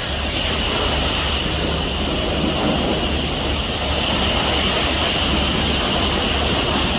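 Steady noise of a truck wash at work: a continuous low rumble under an even spray-like hiss, with no breaks or distinct knocks.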